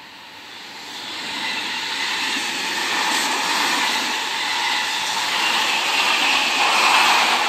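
Seibu 001 series Laview train passing close by: a rushing run of wheels on rail and running gear that builds over the first couple of seconds and is loudest near the end, with a faint high whine over it.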